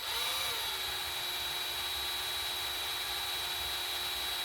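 Electric drill running steadily, drilling into a small broken bolt in an engine block. Its pitch wavers briefly at the start, then holds steady.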